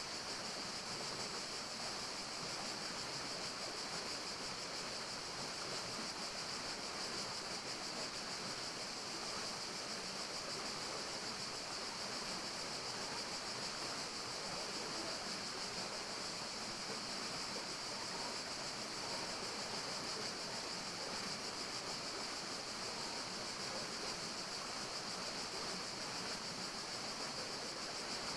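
Steady forest ambience: an even, unbroken hiss with a constant high-pitched band over it, no single sound standing out.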